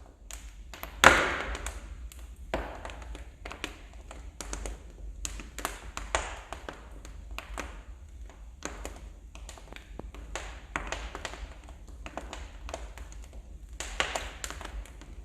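Wood fire crackling in a fireplace, with frequent irregular sharp pops and snaps. The loudest pop comes about a second in, with a short fading tail.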